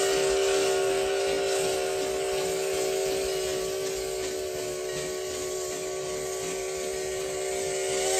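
Steam locomotive whistle held in one long blast, several steady tones sounding together as a chord over a rush of steam hiss. It cuts off sharply at the very end.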